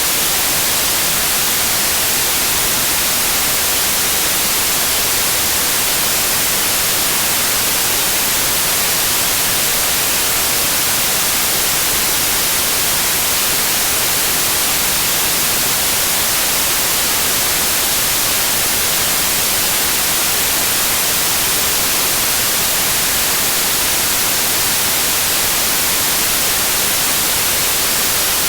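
Steady, unchanging white noise: an even hiss that is strongest in the treble.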